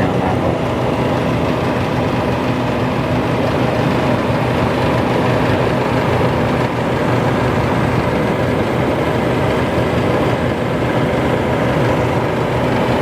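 A 1990 White Westinghouse dehumidifier running steadily: the compressor's low hum under the rush of its fan.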